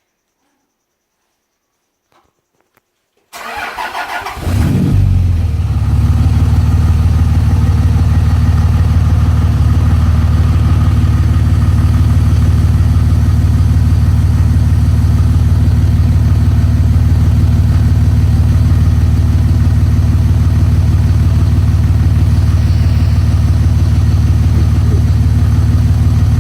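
A 5.9-litre Cummins turbo diesel straight-six is cold-started at about 25 °F after sitting unused for a couple of weeks. After about three seconds of near silence the starter cranks briefly, and the engine catches about four seconds in, swells, then settles into a steady cold idle.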